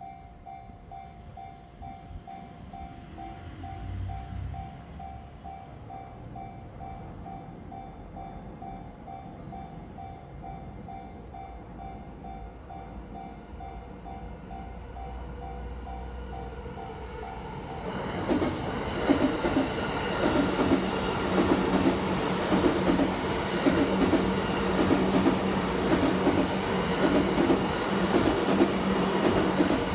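Level-crossing warning bell ringing in an even, repeating beat. About 18 seconds in, a Yamanote Line electric train arrives and passes close by, much louder, with a steady hum and rhythmic wheel clacking that drown out the bell.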